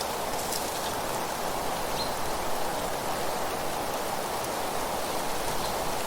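Steady rustling hiss of wind moving through trees and leaves, with a few faint, brief high sounds about half a second and two seconds in.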